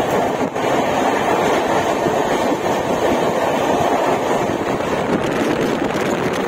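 Steady running noise of the Shatabdi Express heard from on board at speed: wheels rolling on the rails mixed with rushing wind.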